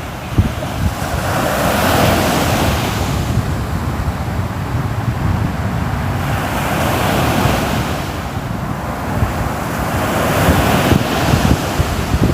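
Ocean waves breaking on a shore: the surf hiss swells and fades twice, over a steady low rumble of wind buffeting the microphone.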